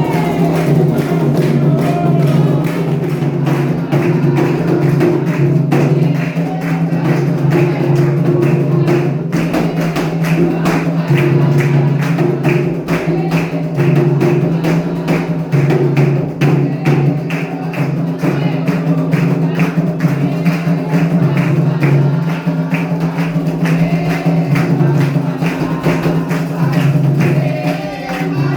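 Candomblé ritual music: atabaque hand drums and other percussion play a fast, steady, driving beat.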